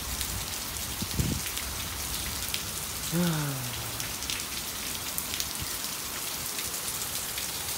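Steady rain falling in a thunderstorm, with many small drop ticks throughout. A low thump sounds about a second in, and a brief low voice sound falling in pitch comes about three seconds in.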